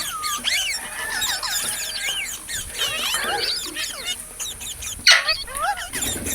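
Parrots chirping and squawking, many short rising and falling calls overlapping, with one loud harsh squawk about five seconds in.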